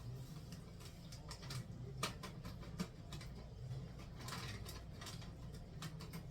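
Kitchen handling sounds from preparing baby cereal: scattered light clicks, taps and scratchy rustles, with sharper clicks about two and three seconds in, over a steady low hum.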